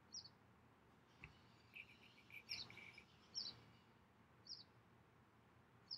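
Near silence: faint room tone with about five short, high chirps spread through it, from a bird.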